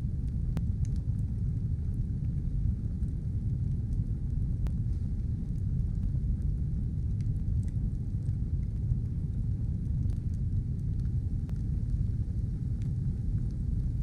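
Fire burning with a steady low roar, dotted with sparse faint crackles and pops.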